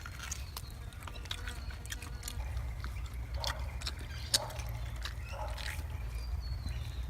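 Someone chewing and biting into spit-roasted rabbit meat: scattered moist clicks and smacks, with one sharper snap about four seconds in, over a steady low rumble.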